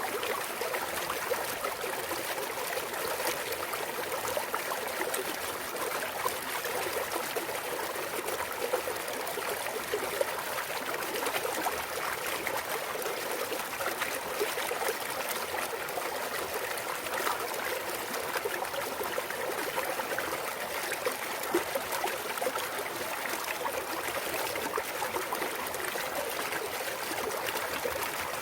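Clear mountain stream trickling and babbling over rocks, a steady, even water sound.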